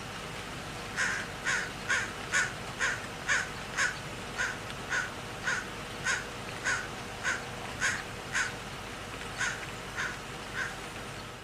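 Crow cawing: a long run of short, repeated caws, about two a second, starting about a second in, over a steady background hiss.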